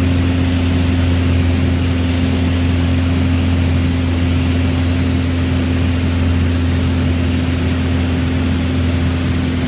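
Mooney single-engine piston airplane's engine and propeller, a loud steady drone in flight.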